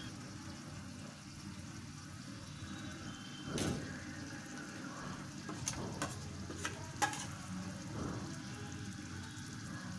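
Spice masala of onion paste, garlic and ground spices frying in oil in a stainless steel pan: a low, steady sizzle, with a few light clicks around the middle.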